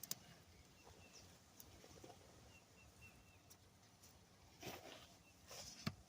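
Near silence with a small bird chirping faintly in short repeated notes, then a few brief rustles and scrapes of hands digging through loose soil in a planting container near the end.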